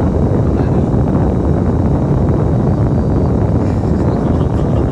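Bus running, a steady low rumble of engine and road noise.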